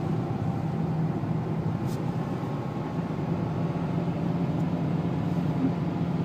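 Steady in-cabin drone of a Renault's 2.0-litre turbo diesel engine running at low speed, with a constant road-noise hiss underneath.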